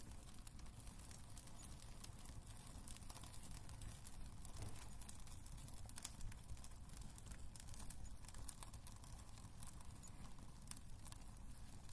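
Wood fire crackling in a fireplace: irregular small pops and snaps over a low, steady rumble of the burning logs.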